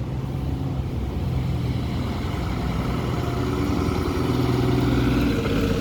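A bus running with a steady hum that grows slowly louder.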